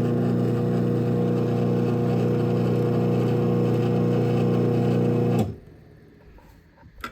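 Craftsman 1/2 hp garage door opener motor running steadily with a constant hum as it opens the door, then stopping abruptly about five seconds in when the door reaches its open limit. A faint click follows near the end.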